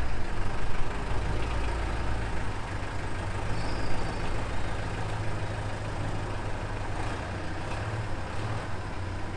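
Mercedes-Benz 608D truck's diesel engine running with a low rumble that drops away about halfway through, as the truck is taken into the MOT bay.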